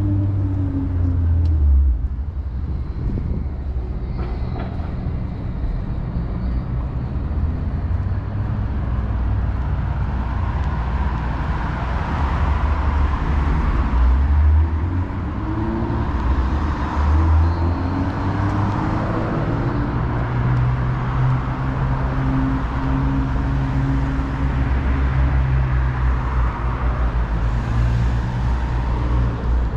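City street traffic: vehicle engines running and passing over a steady low rumble, with now and then an engine's pitch rising or falling.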